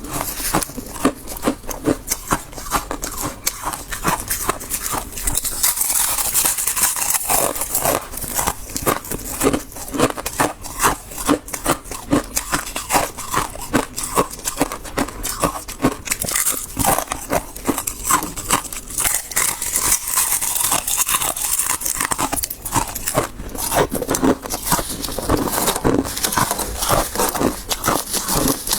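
Close-miked crunching of soft, fluffy freezer frost being bitten and chewed, a dense run of crisp crackles and squeaky crunches.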